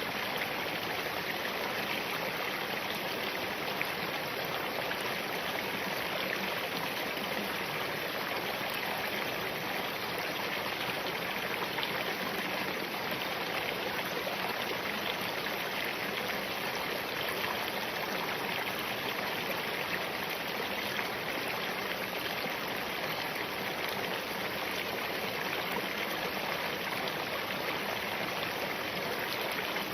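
Spring-fed mountain stream running over rocks: a steady, even rushing of water.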